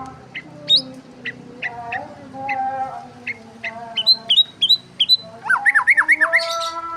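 Small birds chirping: many short, sharp chirps, with a quick run of loud chirps about five and a half seconds in, over softer drawn-out notes.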